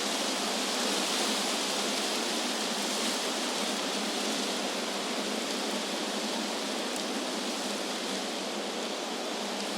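Wind blowing through trees: a steady, even hiss of moving leaves without any distinct gusts or breaks.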